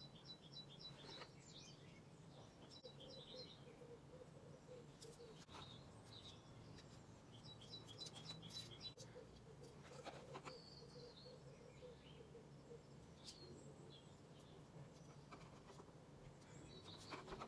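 Near-silent room with faint songbird chirping: two quick runs of short high chirps, one at the start and one about eight seconds in. A few soft, light clicks from tiny earring pieces being handled.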